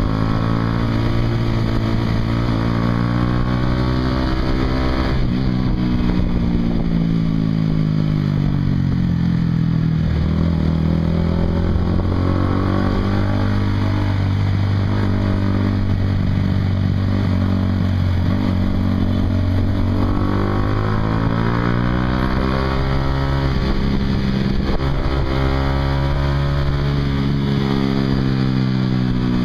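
Honda CBR150R's single-cylinder engine running through a Yoshimura aftermarket exhaust while riding, its pitch climbing and falling several times as the rider accelerates and eases off.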